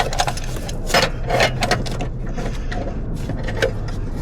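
Hand tools, pliers among them, clicking and scraping against metal parts in the engine bay: a string of sharp, unevenly spaced clicks over a steady low hum.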